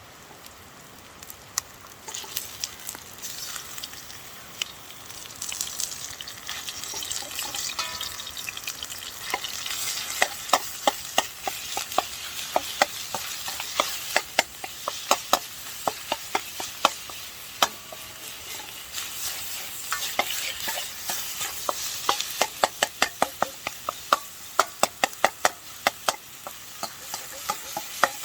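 Food sizzling in a Chinese wok over a campfire, with a metal utensil stirring and clinking against the wok. The sizzle sets in about two seconds in; the clinks grow more frequent from about nine seconds on and come in quick runs near the end.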